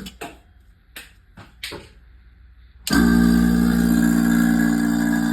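A few light clicks of handling, then about three seconds in an electric vacuum pump switches on suddenly and runs steadily with a deep hum, evacuating the chamber of a homemade vacuum furnace.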